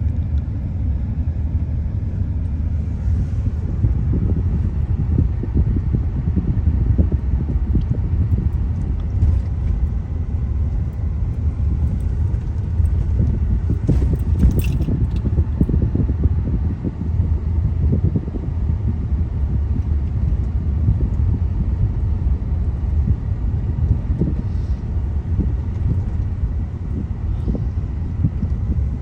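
A car's road rumble heard from inside the cabin as it drives over an uneven road, with irregular jolts and a brief sharp rattle about halfway through.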